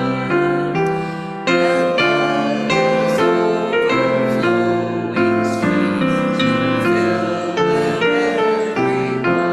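A hymn played on piano, with a congregation singing along in a slow, steady metre.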